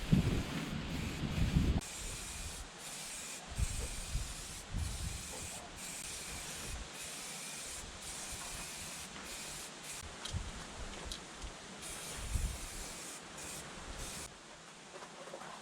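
Aerosol can of Rust-Oleum rust-preventive paint spraying in a long run of short bursts with brief breaks between them, stopping near the end. A few low knocks come early on, from the can or parts being handled.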